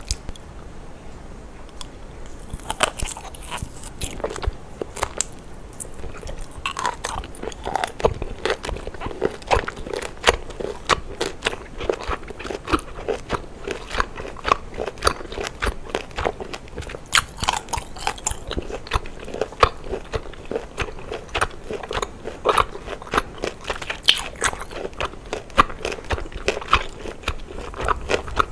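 Close-miked mouth sounds of biting and chewing cooked octopus tentacle: a steady run of crunchy, wet clicks, a few a second, starting a couple of seconds in.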